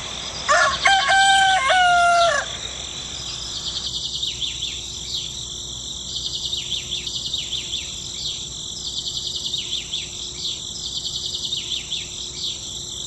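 A rooster crows once, about half a second in: a loud, drawn-out crow of several held notes lasting about two seconds. After it, a steady high chirping of birds and insects carries on.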